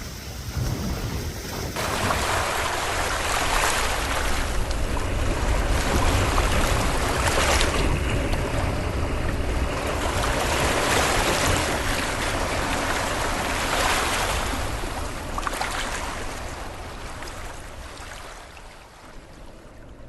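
Small waves washing onto a reservoir shore in repeated swells, with wind rumbling on the microphone.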